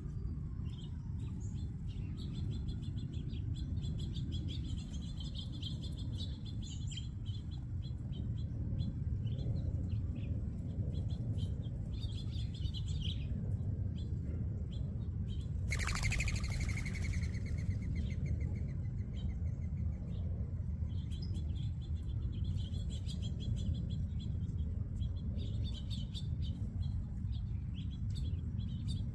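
A mixed flock of small seed-eating birds chirping and twittering continuously over a steady low rumble. About 16 seconds in, one louder call sweeps down in pitch and runs on as a short trill.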